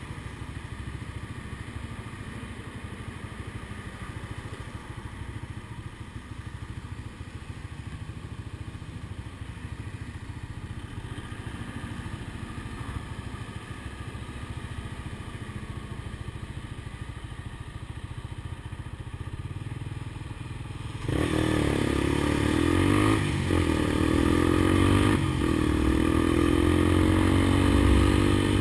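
Honda CBX 200 Strada's single-cylinder four-stroke engine idling steadily through its exhaust, then about twenty seconds in it is suddenly revved up and held at higher revs, the pitch rising and falling with the throttle.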